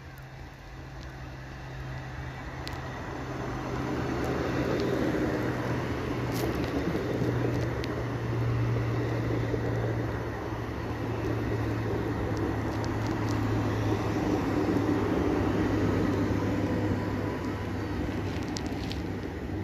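PKP Intercity electric multiple unit passing close by: steady wheel-on-rail rolling noise with a constant low hum. It grows louder over the first few seconds as the train comes alongside, then stays loud as the carriages go by.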